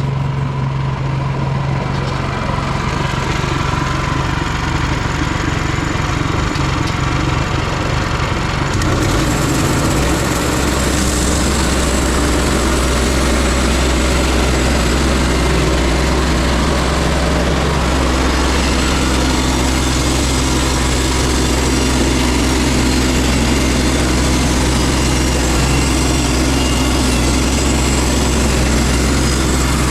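Portable sawmill's engine running steadily. About nine seconds in the sound gets louder, with a deeper hum and more hiss, and then holds steady as the mill keeps working.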